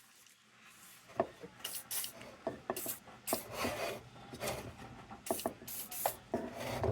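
Tin lantern parts being handled and worked by hand: irregular metal clicks and short scraping sounds while a stuck part is tried.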